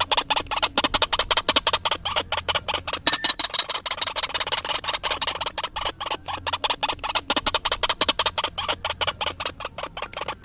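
White-breasted waterhen (ruak-ruak) calls played as a hunting lure: a fast, even run of repeated notes, about six a second.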